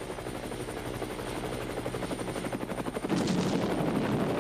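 Helicopter rotor blades chopping in a fast, even beat, growing louder as it approaches, with a jump in loudness about three seconds in.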